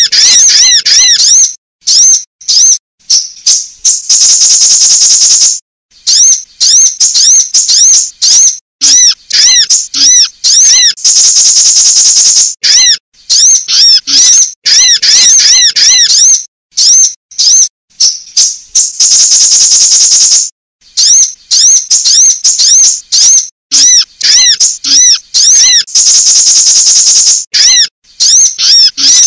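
Sunbird calls played as a loud, looped lure recording: rapid runs of high, down-arching chip notes, broken every several seconds by a high buzzy trill held for one to two seconds.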